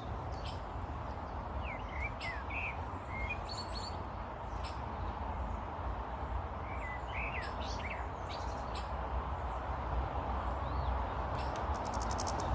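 Small garden birds chirping in short calls, one cluster about two seconds in and another about seven seconds in, with scattered clicks and a quick run of clicks near the end, over a steady low background rumble.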